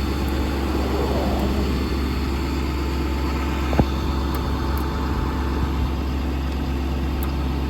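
Engine running steadily at idle, with one sharp click a little under four seconds in.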